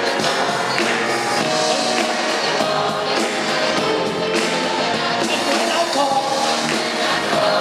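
Live gospel music: singing over a full band with drums, playing steadily throughout.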